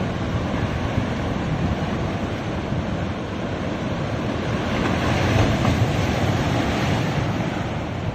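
Sea waves washing onto a beach, a continuous surf that swells slightly about five seconds in.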